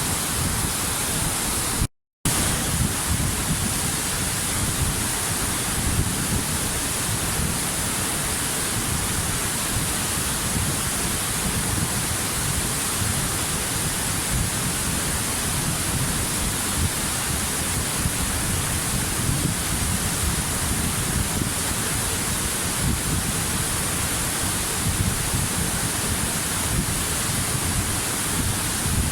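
Waterfall: a steady rush of falling water, even and unbroken, with a brief cut to silence about two seconds in.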